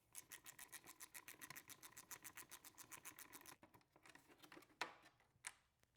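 Hand ratchet clicking fast and evenly, about eight clicks a second, backing out a fastener of the engine's plastic top cover. It stops after about three and a half seconds, followed by a few loose clicks and two sharper knocks near the end.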